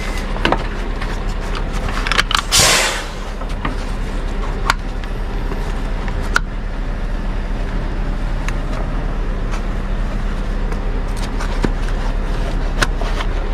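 Scania R580 truck, its V8 engine droning steadily with road noise inside the cab while driving. Scattered small clicks and a short hiss about two and a half seconds in.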